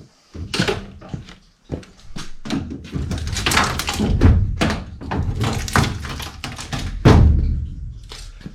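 A run of knocks, bangs and scraping of sheet metal as an evaporator coil and its cabinet are forced into place, with the loudest bang about seven seconds in.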